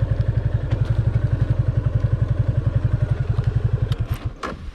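Yamaha FZ25's single-cylinder engine idling with an even train of exhaust pulses, then switched off near the end, leaving a few clicks and knocks.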